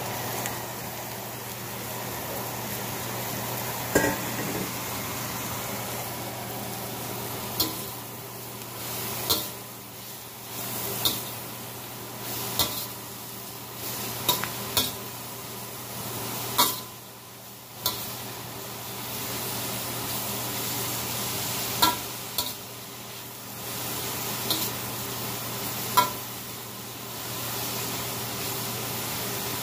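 Sliced mushrooms frying in hot oil in a stainless steel wok with a steady sizzle, while a slotted steel spatula stirs them, clinking and scraping against the wok about a dozen times.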